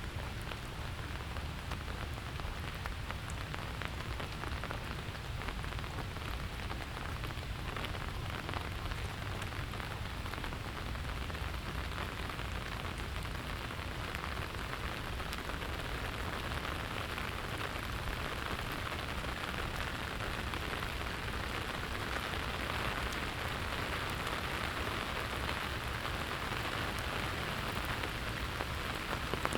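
Steady rain falling on the street and surroundings, with scattered individual drops ticking, growing a little heavier from about halfway through.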